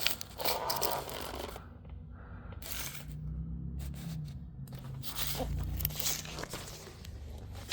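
Rustling and scraping handling noises, with a faint low hum in the middle.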